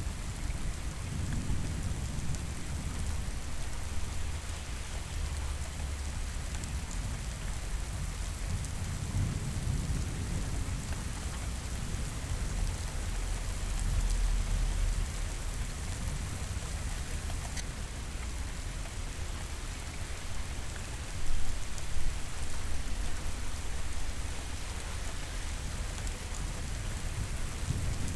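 Steady rain hissing, with low rumbles of thunder rolling in and out several times. The loudest, sharper rumble comes about three quarters of the way through.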